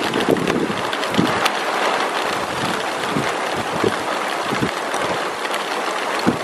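Heavy rain falling steadily, a dense hiss with scattered sharp taps of drops striking a surface.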